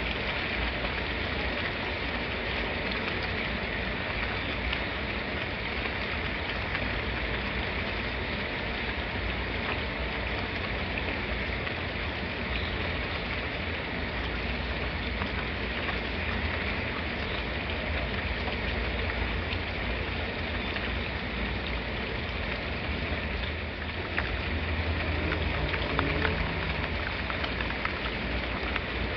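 Steady rainfall, a dense even hiss of drops landing on a surface, with a little low rumble underneath and a few sharper drop ticks near the end.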